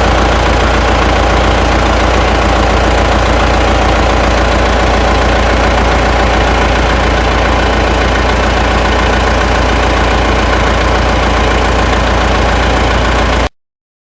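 An engine idling at steady revs, loud and unchanging, with a deep low rumble. It cuts off abruptly near the end.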